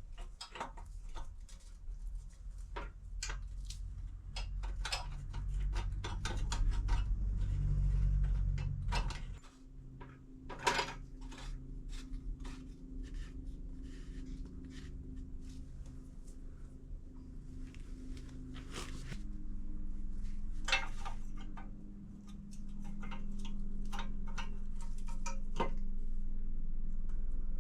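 Metal clinks, taps and knocks of tools and exhaust parts being handled and fitted, irregular throughout, over a steady low hum.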